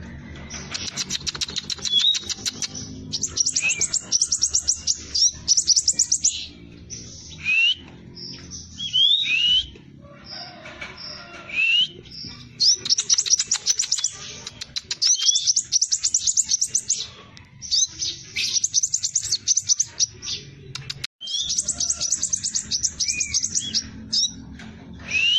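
Sepah raja (scarlet minivet) singing a fast, tightly packed rolling song: repeated bursts of rapid high-pitched chips, each lasting one to two seconds, broken by short rising whistled notes.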